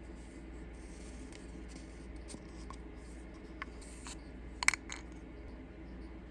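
Steady low hum with faint light scraping, and a quick cluster of sharp clicks about three quarters of the way through.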